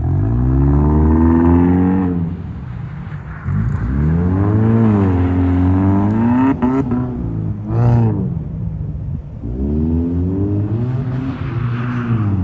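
Subaru Impreza's flat-four engine revving up and falling back several times, with a short lull about two seconds in and quick blips of the throttle in the middle.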